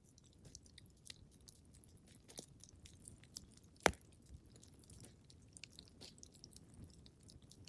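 Wood fire crackling in a fireplace: a steady scatter of small crackles, with one sharp, louder pop about four seconds in.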